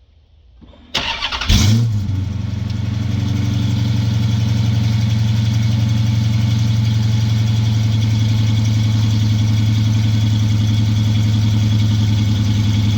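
2011 Dodge Charger Pursuit starting: the starter cranks about a second in, the engine catches with a loud flare, then settles into a steady idle. The exhaust runs with a rear muffler removed.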